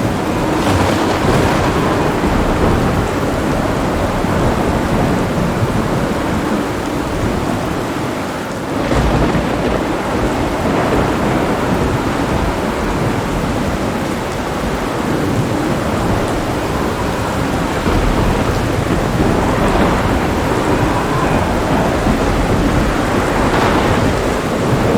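Heavy rain falling steadily with thunder rumbling throughout; a fresh roll of thunder breaks in about nine seconds in.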